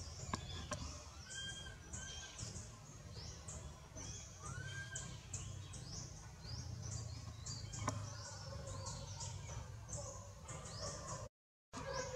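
Birds chirping: many short, high chirps repeating throughout, with a few lower arched calls, over a steady low rumble. The audio cuts out completely for a moment near the end.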